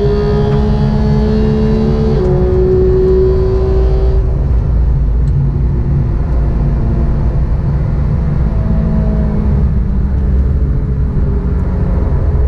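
Porsche 911 GT3's flat-six engine on track, pulling hard with a quick upshift about two seconds in. About four seconds in the driver lifts, and the engine runs on at lighter throttle through a bend, over steady wind and road noise.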